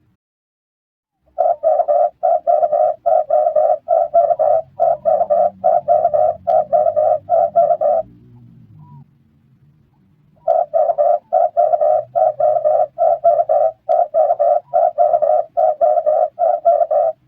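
Red collared dove cooing: two runs of short, evenly repeated coos, about two to three a second, with a pause of a couple of seconds between them.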